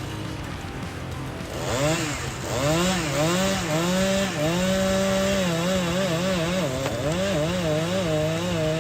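Chainsaw running at high revs and cutting into a tree trunk. It comes in about a second and a half in, and its engine pitch repeatedly dips and recovers as the chain bites into the wood. Background music plays underneath.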